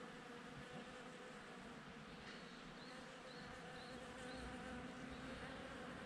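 Bees buzzing steadily around cherry blossoms, a faint, continuous hum. About halfway through, a few short high chirps sound in quick succession.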